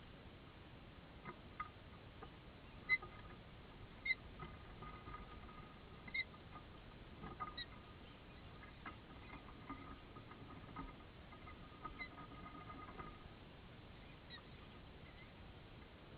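Faint bird chirps: short, high peeps every second or two, a few of them louder.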